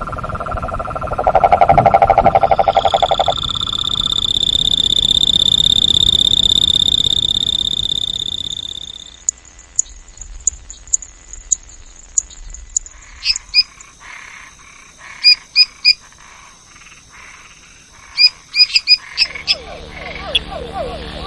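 Frogs and toads calling in turn: a low pulsed trill at first, then a long steady high-pitched call lasting about six seconds, then scattered sharp high chirps and clicks, and a fast pulsed trill again near the end.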